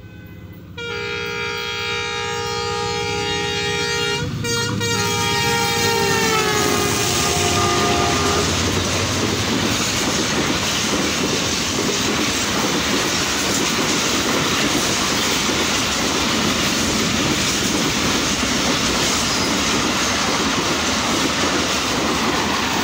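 Locomotive's multi-tone horn sounding a long blast, broken briefly about four seconds in, its pitch falling as the express passes at high speed. Then the train's wheels and coaches rush past on the rails with a loud, steady rattling clickety-clack.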